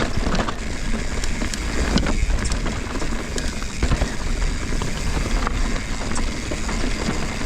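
Mountain bike riding over a rocky trail: a steady rush of wind on the microphone and tyre noise, with frequent clicks and knocks as the bike rattles over rocks and roots.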